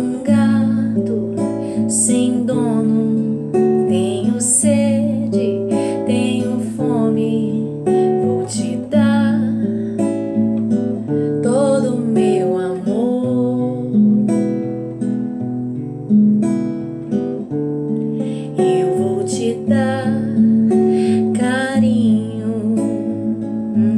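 Music: an acoustic guitar strumming chords in a song, with no words sung.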